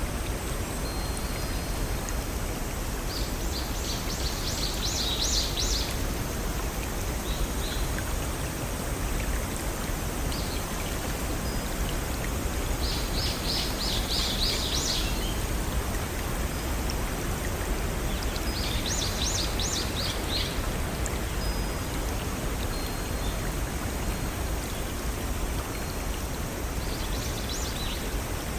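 Steady rushing of a small forest stream over rocks, with a songbird singing four short phrases of rapid repeated high notes, each about two seconds long.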